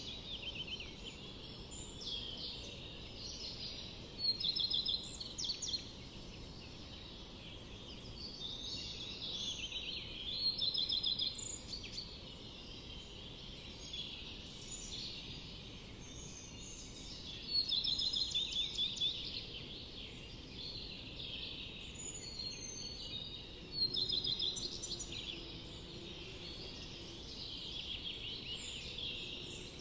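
Songbirds singing, several overlapping birds with short, rapid trilled phrases, the loudest bursts coming every five to seven seconds, over a faint steady background hiss.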